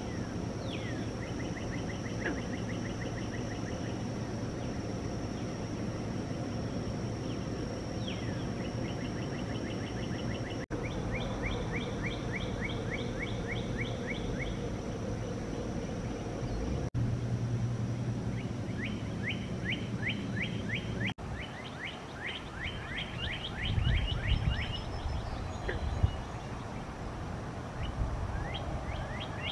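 A songbird singing series of quick, repeated downslurred chirps, about four a second, over a steady thin high tone and a low background rumble. The sound drops out briefly at a few edits, and a couple of low bumps come a few seconds before the end.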